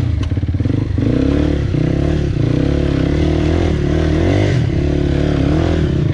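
Dirt bike engine running under throttle, its pitch rising and falling as the rider blips and holds the revs.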